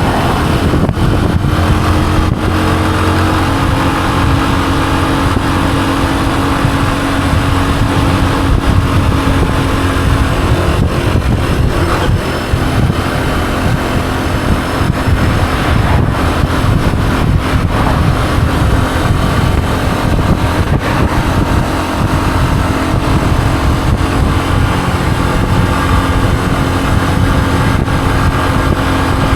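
Honda CG125's single-cylinder four-stroke engine running steadily while the motorcycle is ridden at a fairly even speed.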